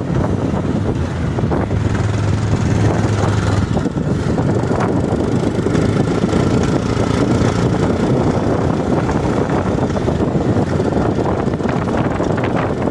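Steady noise of a moving vehicle: an engine running with wind rushing over the microphone.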